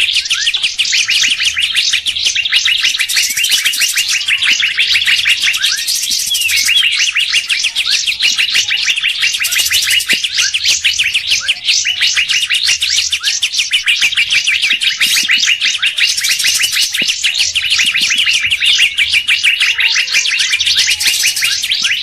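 Bird-lure recording of many small songbirds calling at once, a dense, unbroken stream of rapid high chirps and trills with no pauses.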